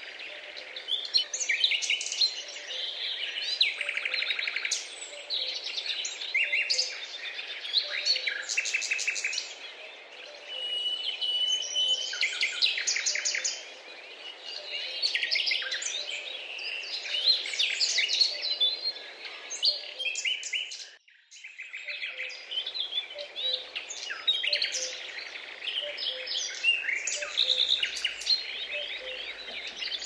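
Morning chorus of many small songbirds chirping, trilling and twittering over one another, with rapid repeated notes, and a brief drop-out about two-thirds of the way through.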